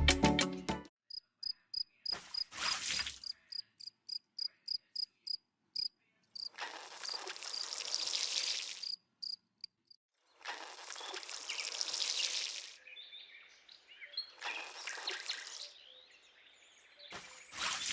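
Insect chirping, cricket-like: a regular train of short high chirps, about four a second, for the first few seconds. It gives way to three longer bursts of hissing noise.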